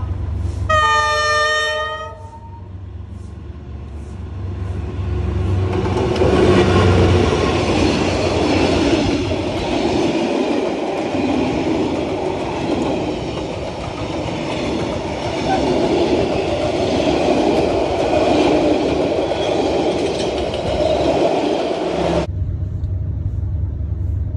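D19E diesel-electric locomotive sounds its horn once for about a second and a half, then hauls a passenger train past at speed: a loud, rolling rumble and clatter of the locomotive and its carriages' wheels on the rails. The sound cuts off suddenly near the end.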